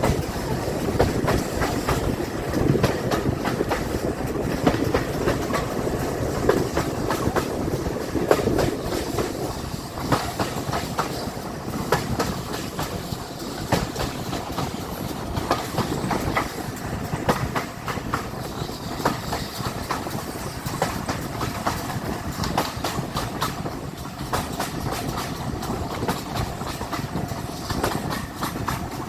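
A train running along the line, its wheels clicking over the rail joints with a steady rumble underneath.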